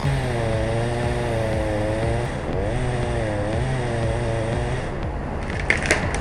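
Chainsaw engine running under load as it cuts a small trunk, its pitch wavering up and down, then easing off about five seconds in, followed by a few sharp cracks or snaps near the end.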